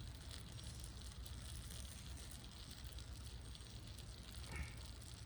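Wood fire in a fire pit crackling faintly, with a brief knock about four and a half seconds in.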